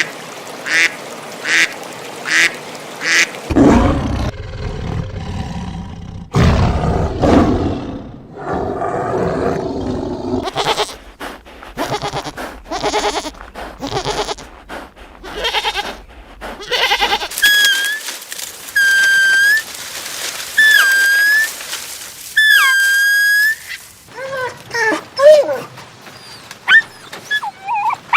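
A succession of different animal calls. It opens with a run of short, evenly spaced calls, followed by lower, louder calls. After that come about five held, whistle-like calls of a steady pitch, and it ends with brief chirps.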